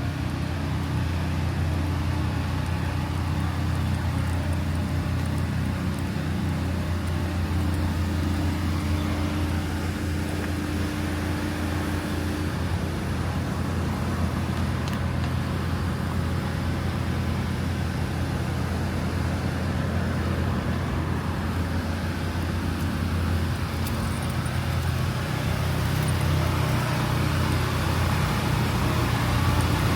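Street traffic with a motor vehicle engine running steadily, a low hum that grows a little louder near the end.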